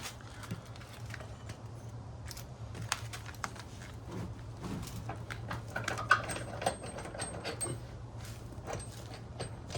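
Irregular light metallic clinks and knocks of motorcycle rear-wheel parts and tools being handled, over a steady low hum.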